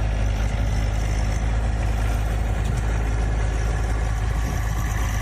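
A vehicle engine running steadily with a heavy low rumble, cutting off abruptly at the end.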